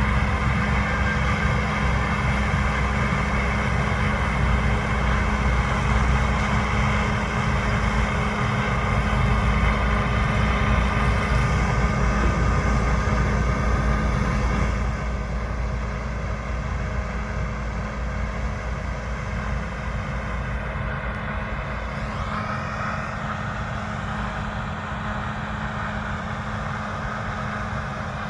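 Combine harvesters and tractors working a wheat field: a steady, heavy diesel engine drone with a constant whine. It eases off about halfway through as the nearest machine moves away.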